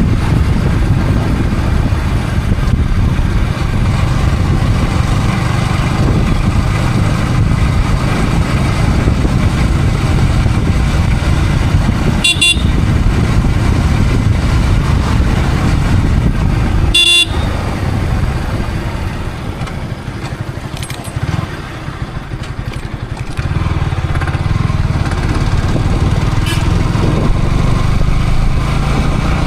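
Yamaha R15 V3 motorcycle riding through traffic, heard from a helmet camera: steady engine and wind rush, with two short vehicle-horn toots about 12 and 17 seconds in. The rush drops for a few seconds after the second toot, then picks up again.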